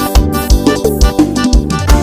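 Instrumental forró elétrico backing track: a steady kick-drum beat about three times a second under bass and keyboard, with a melody line sliding in pitch.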